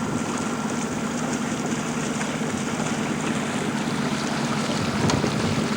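Small boat under way: a steady low drone with water rushing past the hull.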